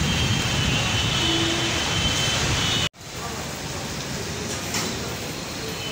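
Heavy rain in a windstorm, a steady hiss. The sound breaks off for an instant about three seconds in, then the rain goes on a little quieter.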